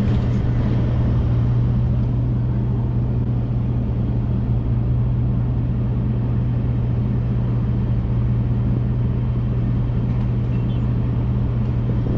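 A vehicle engine idling: a steady low hum with no change in pitch.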